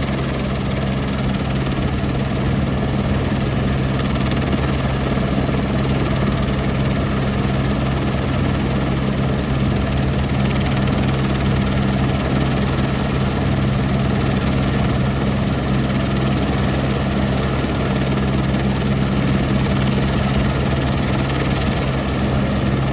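Helicopter engine and rotor noise: a steady, loud drone with an unchanging low hum underneath.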